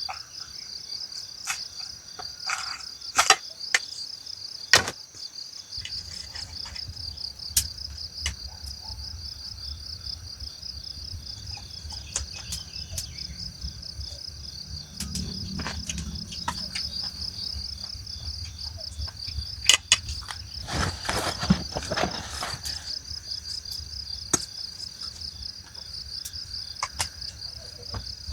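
Crickets trilling steadily in a fast, pulsing high chirr, with scattered sharp knocks and clicks now and then. A low steady rumble comes in about six seconds in.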